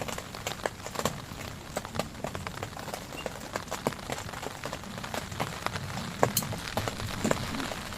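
Heavy rain falling, a steady hiss with many irregular sharp drop hits striking a nearby surface.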